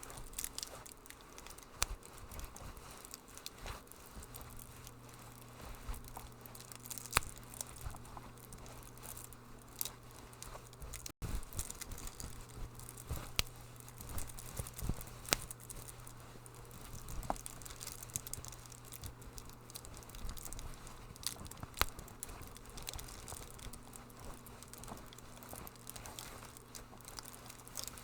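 Wood fire crackling in a fireplace: irregular pops and snaps, some sharper than others, over a faint steady low hum.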